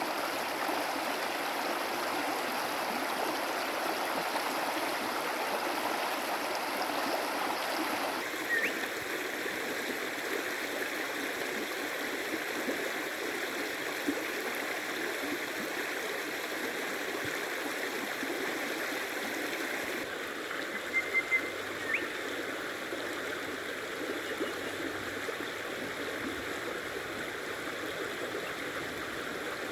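Stream water running steadily over rocks, a continuous rushing with a few short high chirps. Its sound changes abruptly about eight and twenty seconds in.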